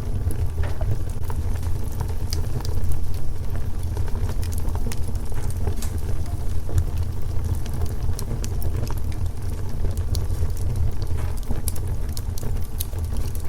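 Wood fire crackling, with many scattered sharp pops and snaps over a steady low rumble.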